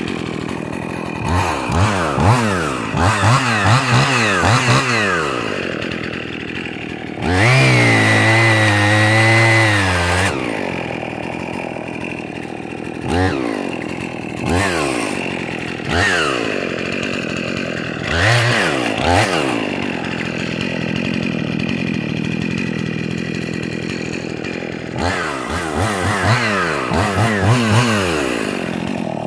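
Husqvarna 55 Rancher two-stroke chainsaw idling and being revved: a cluster of quick throttle blips, then one held full-throttle run of about three seconds, then single blips with idle between, and another rapid series of revs near the end.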